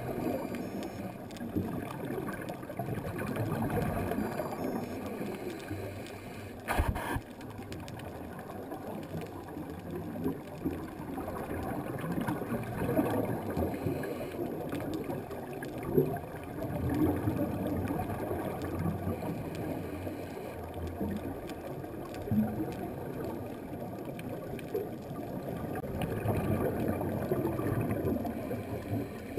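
Underwater gurgling and rushing of a scuba diver's regulator breathing and exhaled bubbles, heard through the camera housing, swelling and fading with each breath. There is one sharp click about seven seconds in.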